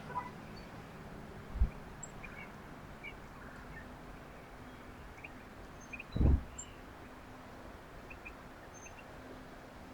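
Small birds at a backyard feeder giving short, scattered chirps, with two dull low thumps, one about a second and a half in and a louder one about six seconds in.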